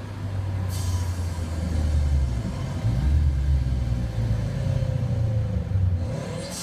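A vehicle engine running with a deep, steady rumble.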